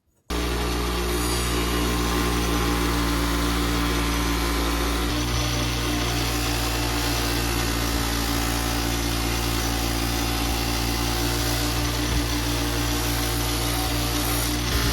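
An electric power tool's motor running steadily, with a hum and a hiss, starting abruptly just after the beginning. The hum's pitch shifts slightly about five seconds in.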